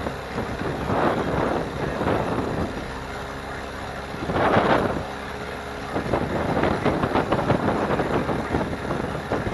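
Outboard motor running steadily as the jon boat travels, with gusts of wind buffeting the microphone in surges, the strongest about four and a half seconds in.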